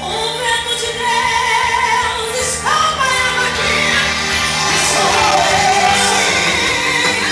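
A woman singing a gospel song over a recorded backing track.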